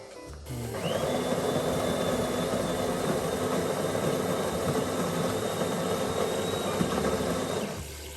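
Built-in conical burr grinder of a De'Longhi Dinamica Plus espresso machine grinding coffee beans. It is a steady whirring with a thin high whine, starting about a second in and stopping abruptly near the end.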